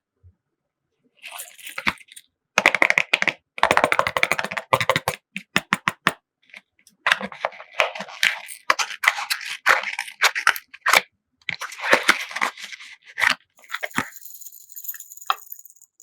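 Slime being squished and stretched by hand, giving clusters of sticky crackling and popping in irregular bursts, then a steady high hiss over the last two seconds.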